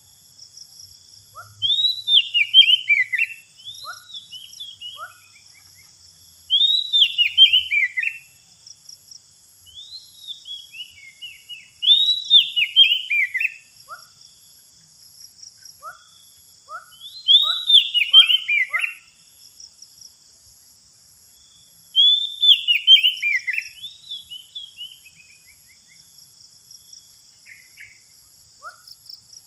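Oriental magpie-robin (kacer) singing: loud whistled phrases, each about a second long and falling in pitch, repeated roughly every five seconds with softer chirps between, over a steady high hum of insects.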